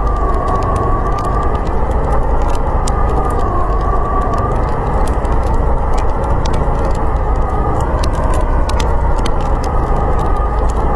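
Snowstorm wind howling steadily, with a whistling note that wavers up and down, while a fire crackles with frequent sharp pops.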